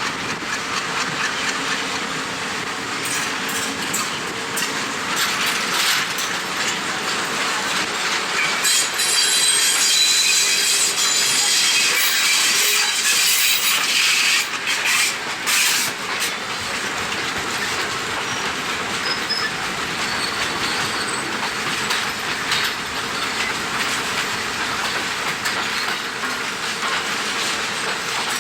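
Passenger train running along the track, heard from on board: a steady rushing rumble with wheels clacking over rail joints. For several seconds about a third of the way in it grows louder and brighter, with a quick run of sharp clacks.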